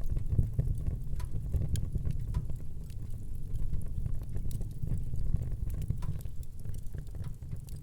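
A fire burning in a fireplace, with a steady low rumble under irregular crackles and small pops.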